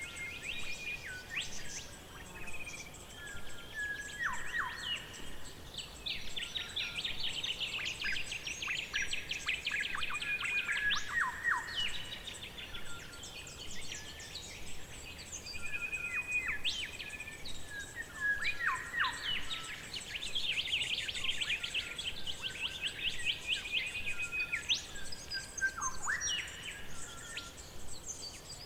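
Forest birdsong: several birds singing and calling, with rapid chirping trills and short downward-sweeping whistles over a faint steady background hiss.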